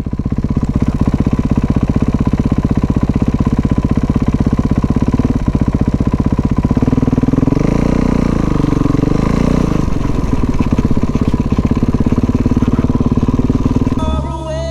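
Kawasaki dirt bike's engine running steadily with a fast, even beat, revving up and back down about halfway through.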